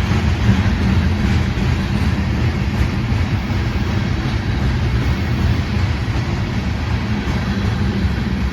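Norfolk Southern freight train passing close by, a steady rumble of cars rolling over the rails.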